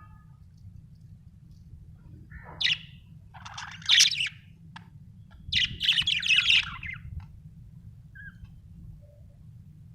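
Budgerigar chirping and warbling in three quick bursts, about two and a half, four and six seconds in, the last the longest, over a steady low hum.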